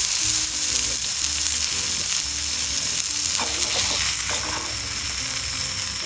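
Hamburger patties searing in a hot pan over a campfire, with a loud, steady sizzle.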